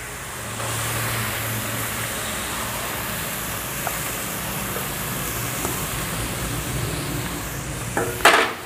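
Grated carrot frying in hot oil in a wok: a steady sizzle that grows louder about half a second in as the carrot goes into the pan.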